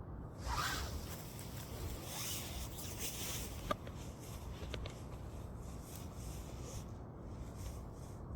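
Burning firewood hissing in uneven waves for several seconds, with a sharp crackle pop a little before halfway and a fainter one about a second later.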